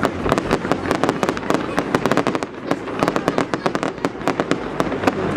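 Fireworks going off in a dense, uneven barrage: many sharp cracks and bangs a second, one on top of another.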